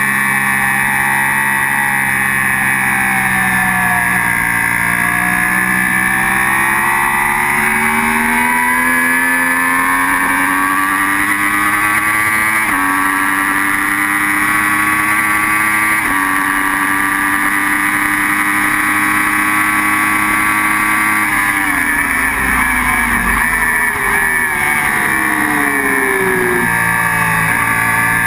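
Sport motorcycle engine heard from on board at full throttle, revs climbing through the gears with two shifts midway. About three quarters through, the revs fall and waver as the rider brakes and downshifts for a corner, then climb again near the end, with steady wind rush over it all.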